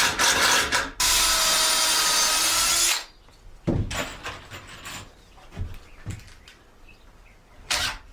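Power drill driving a screw into a pocket hole in wood: a couple of short bursts, then about two seconds of steady running that stops abruptly. Light knocks and clicks follow as the drill and boards are handled, with one more short burst near the end.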